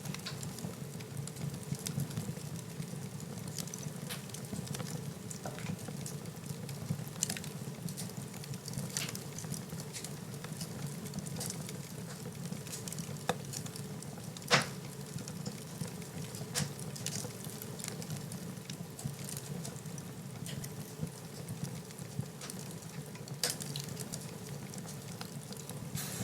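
Fire in a fireplace crackling: scattered pops and snaps over a steady low rumble, with one sharper, louder pop about halfway through.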